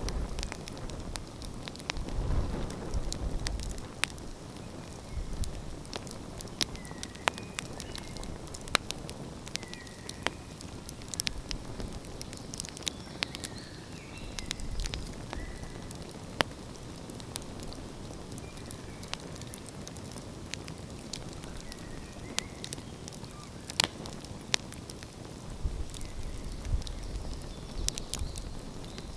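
Wood fire burning in the open, crackling with frequent sharp, irregular pops over a steady hiss. Low rumbling swells come near the start and again near the end.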